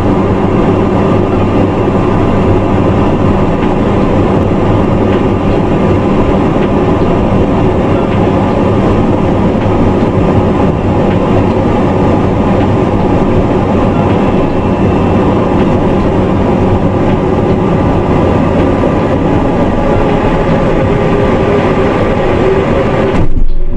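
Aircraft engines running steadily through an approach: a loud, dense drone with several steady tones, cutting off abruptly just before the end.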